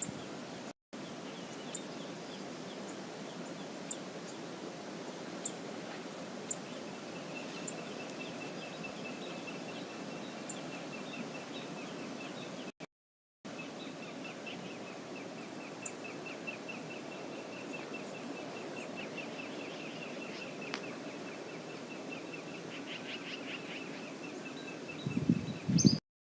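Steady rush of river water with a small bird's fast, high trill of repeated notes going on and off over it, plus a few sharp high chips. A few louder low thuds come near the end.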